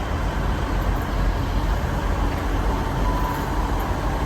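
Class 158 diesel multiple unit running steadily at the platform, a constant low engine rumble with no change.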